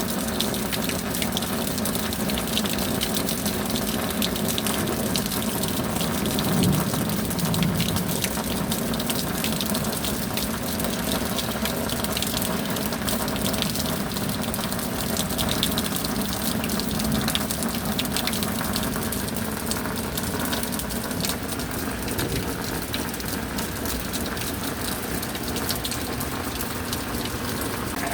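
Steady rain falling, a constant rush of water dense with the patter of drops.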